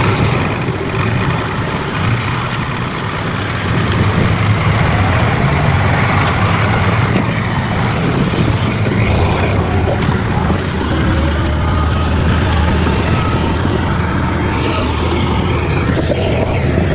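Bulldozer's diesel engine running steadily under load, a continuous low drone.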